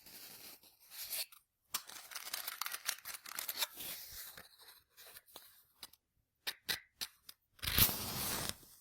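Paper and kindling being handled while a fireplace fire is laid and started: a run of rustling, crumpling and tearing sounds with sharp snaps, then a louder rushing burst lasting about a second near the end.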